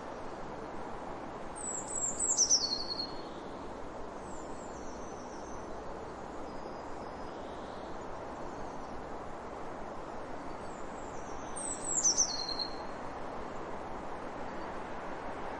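A bird calling: two loud high calls about ten seconds apart, each a short run of notes stepping down in pitch, with fainter calls between them. Steady rushing background noise throughout.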